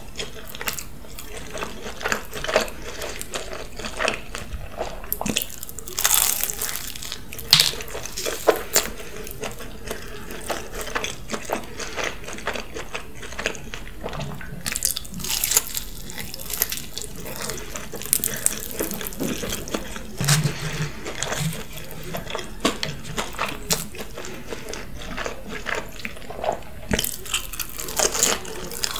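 Close-miked eating sounds: chewing and biting a cheesy pizza topped with waffle fries, with irregular wet mouth clicks and smacks.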